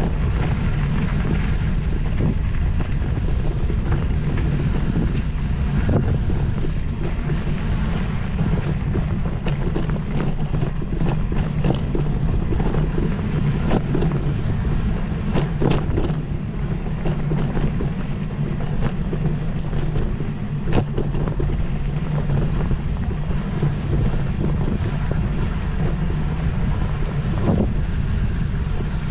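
Wind buffeting the microphone over a steady low rumble, with scattered sharp clicks and knocks.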